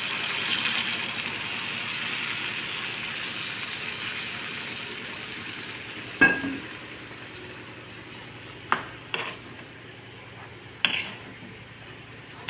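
Small fish, chillies and onion sizzling in oil in a kadai while a metal spatula stirs them, the sizzle fading away over the first half. About halfway through the spatula clangs once against the pan with a short ring, followed by a few light taps.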